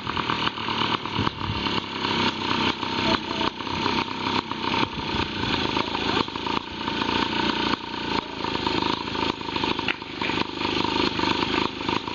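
Small PW motorcycle engine running at idle, its level rising and falling unevenly. It is being adjusted because it has been hard to start.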